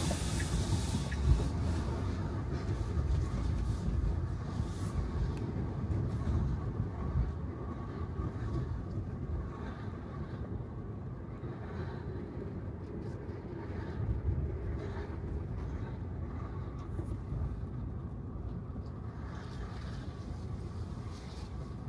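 Road noise from a Tesla Model 3 driving on wet pavement: a steady low tyre rumble with hiss, and no engine sound. There is one sharp thump about a second in, and the rumble grows quieter about halfway through.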